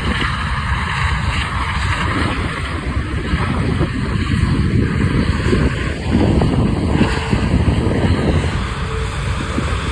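Jet engine noise from a British Airways Airbus A380 landing: a loud, steady rumble that grows louder about six seconds in, with wind buffeting the microphone.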